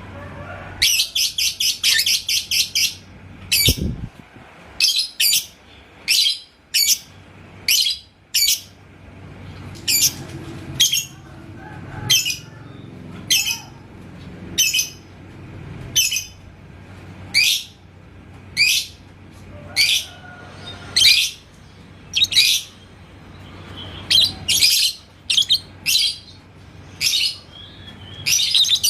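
Lovebird chirping in sharp, high notes: a fast run of chirps about a second in, then single chirps repeated every half second to a second.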